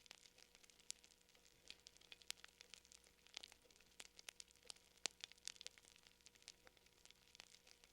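Fire crackling faintly: irregular sharp snaps and pops, several a second, over a faint steady hum.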